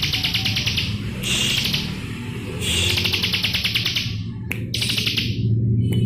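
Bar-winged prinia singing in repeated bursts of fast, high, buzzing trills, each about a second long, with short gaps between them. Background music with a steady low bass plays underneath.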